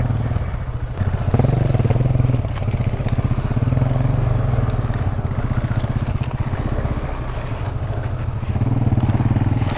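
Single-cylinder dual-sport motorcycle engine running at low trail speed, the throttle opening and easing off so the engine swells about a second in, around four seconds in and again near the end.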